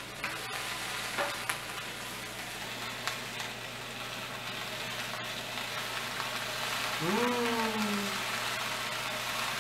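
Green and black olives sizzling steadily in hot olive oil in a wok. A few light knife knocks on a board come near the start as a lemon is cut, and a short falling vocal sound comes about seven seconds in.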